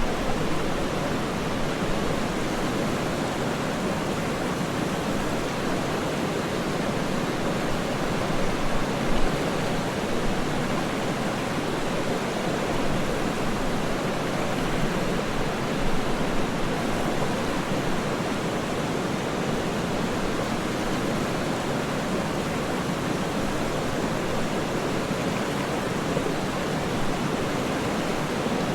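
Waterfall: a steady, even rush of falling water with no breaks, swelling slightly now and then.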